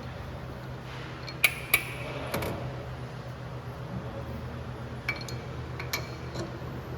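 Sharp metal clinks and clicks of a dial indicator and its holder being loosened on a lathe, a few separate strikes with two close together about a second and a half in and more near the end, over a steady low hum.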